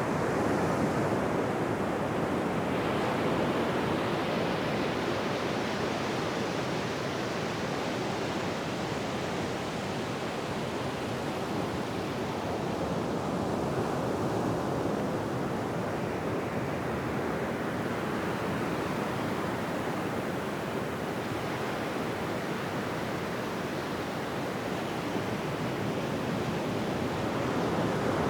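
Ocean surf washing on a beach: a continuous rush of water whose loudness swells slowly, a little louder in the first seconds and again near the end.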